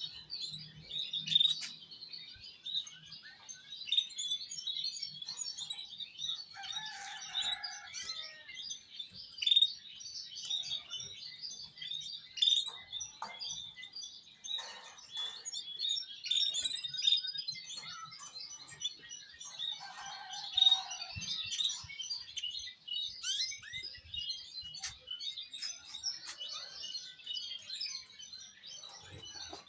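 Many small birds chirping and calling at once: a busy, overlapping chatter of short high chirps.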